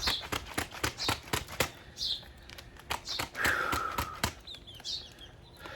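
A quick, irregular run of sharp clicks and knocks, thickest in the first two seconds. Over it a bird repeats short high falling chirps, with one longer whistle near the middle.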